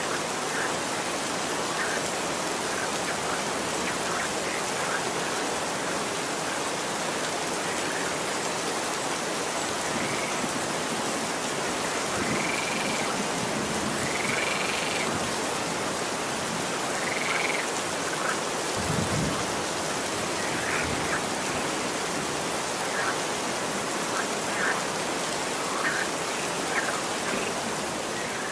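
Steady rain falling, an even hiss throughout. Short high calls are scattered through it, some of them brief rising-and-falling chirps, and a brief low rumble comes about two thirds of the way in.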